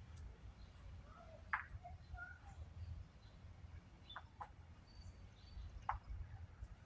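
Faint outdoor background with a low, steady rumble and a few short bird chirps spaced a second or more apart.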